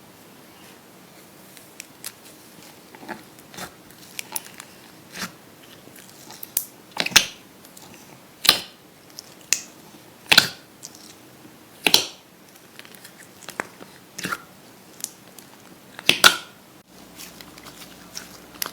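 Slime being worked, giving a string of sharp crackling pops at an irregular pace of about one or two a second. The loudest pops come a few seconds in and again near the end.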